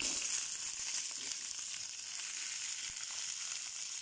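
Eggplant pieces frying in hot oil in a pan, a steady high sizzling hiss.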